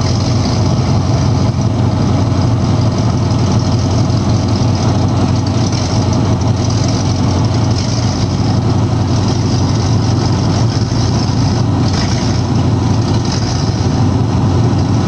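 A vehicle engine idling steadily, a low even drone with no revving.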